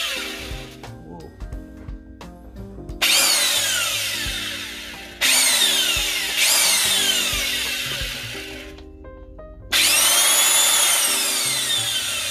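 A Chinese OEM copy of a Makita 5806 7-inch circular saw running unloaded in short bursts. Its motor starts suddenly four times, and after each burst it coasts down with a falling whine.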